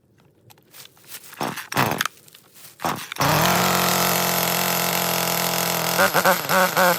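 Echo CS-3510 two-stroke chainsaw being pull-started: a few short pulls of the starter cord, then the engine catches about three seconds in and idles steadily. Near the end a wavering bleat-like animal call sounds over it.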